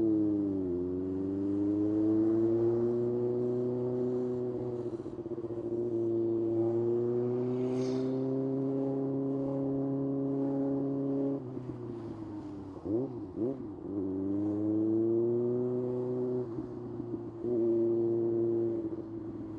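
Kawasaki ZX-6R's inline-four engine running under way at a steady, fairly even pitch that dips early on and then slowly climbs. Around the middle the note falls back, and several quick rises and falls in pitch follow before it settles again.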